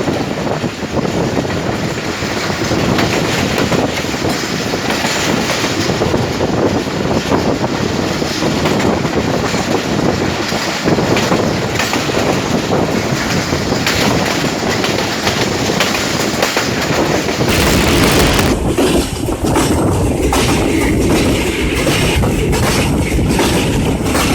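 Passenger train running through a station, its wheels clattering over the rail joints in a loud, continuous rattle. A little over two-thirds of the way through, the sound turns deeper and more rumbling.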